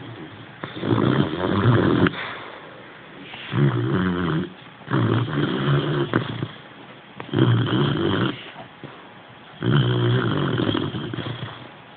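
Boxer puppy snoring while asleep: five loud, rough, rattling snores, about one every two seconds.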